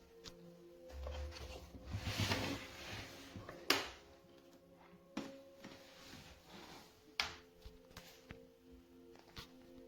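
Handling noises: a rustling stretch, then several sharp clicks and knocks, like a small lid or door being worked, over a low steady hum.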